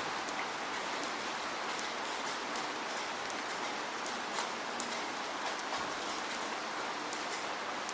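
Steady rain falling, with scattered close raindrop ticks over an even hiss.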